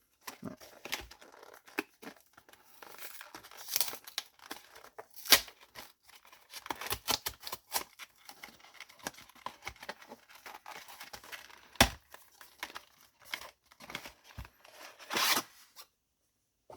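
Plastic and cardboard packaging of a Yu-Gi-Oh! Special Edition set being torn open and crinkled by hand: a run of crackles and clicks, two sharper snaps, and a longer tear near the end.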